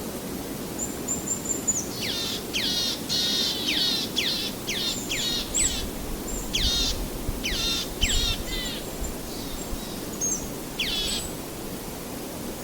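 A bird calling: a rapid run of high notes, each sweeping steeply downward, for about seven seconds, then one more note near the end. Behind it runs a steady low rushing noise.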